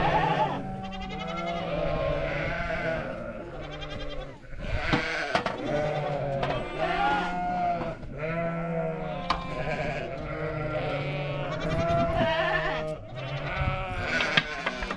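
A flock of sheep and goats bleating, with many wavering calls overlapping one after another.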